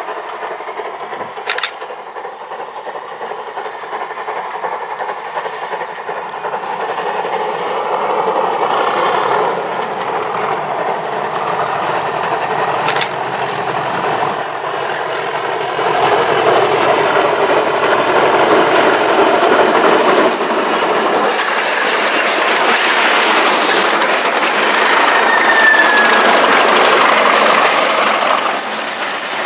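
Class 37 diesel locomotive, its English Electric V12 engine running under load, growing louder as it approaches and passes with its train rolling along the rails. The sound builds in two steps, about a quarter and about halfway through, stays at its loudest, then falls away near the end.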